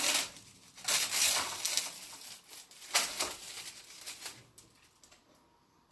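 Plastic film being peeled off a frozen meal tray: bursts of crinkling and rustling, the loudest about a second in and again at three seconds, tapering off near the end.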